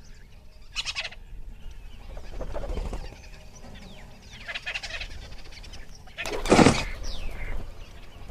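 Birds calling, most likely domestic fowl: several separate loud calls, some falling in pitch, the loudest about two-thirds of the way through.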